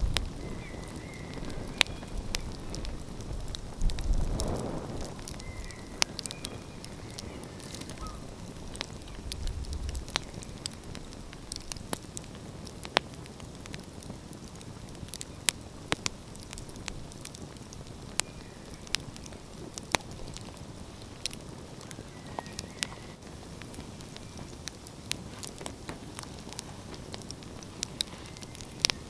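Wood fire crackling and popping with sharp, irregular snaps over a low steady hiss. There is a brief low rumble about four seconds in.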